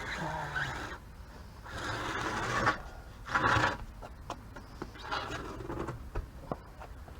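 Four rasping scrapes, each about a second long, with a few light clicks between them.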